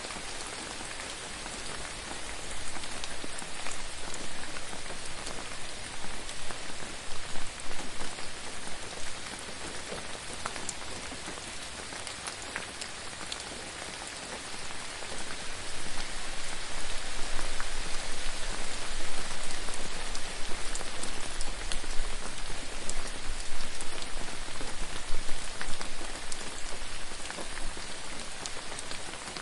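Steady rain falling on a surface, a dense patter of individual drops over an even hiss, swelling louder twice, from about two seconds in and again from about halfway.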